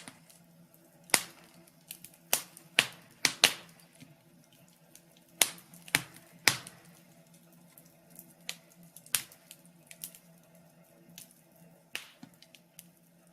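Fireplace crackling: irregular sharp pops and snaps, about a dozen spaced unevenly, over a faint steady hum.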